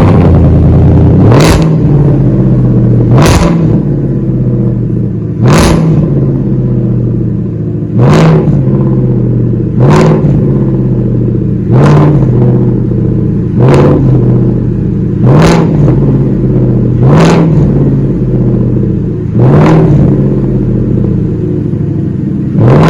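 2019 Ford F-150's 5.0 L Coyote V8 running through a muffler-less true dual exhaust with an X-pipe, at a loud cold-start fast idle. It is given a short throttle blip about every two seconds, each one a quick rise and fall in pitch with a sharp crack from the exhaust.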